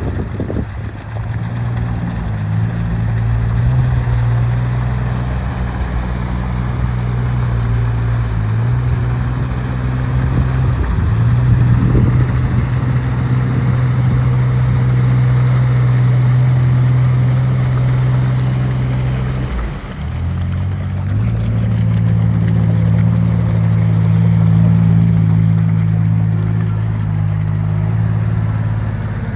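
Off-road vehicle engine running steadily under load, its pitch stepping up and down a few times, with a brief drop about twenty seconds in before it picks up again.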